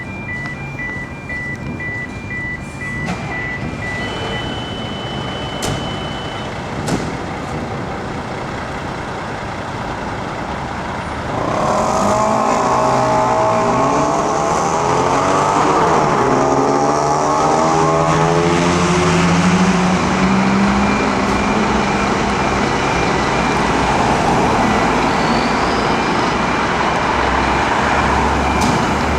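Fire engines turning out: diesel engines running under a short repeating beep for the first few seconds, then about eleven seconds in a siren comes on loud, its tones sweeping up and down over the engines.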